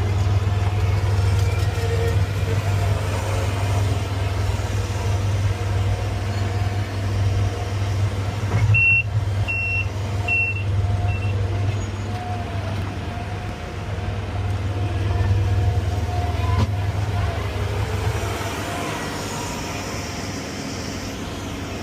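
Crane's engine running steadily with a low hum. Partway through, a warning beeper sounds four short, evenly spaced beeps, the last one faint.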